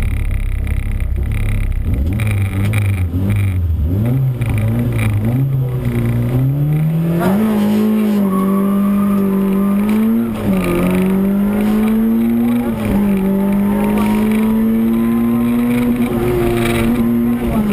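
Peugeot 106 Rally car's four-cylinder engine heard from inside the cabin, pulling away under hard acceleration. The engine note climbs in steps through the first seven seconds, then stays high, dropping briefly at each gear change: about ten seconds in, about two seconds later, and again near the end.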